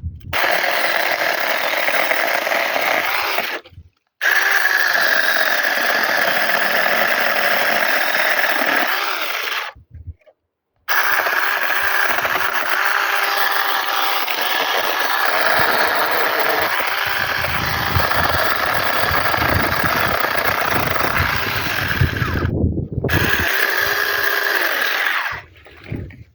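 Small cordless mini chainsaw running with a steady motor whine in four long runs, stopping briefly three times and then cutting off near the end.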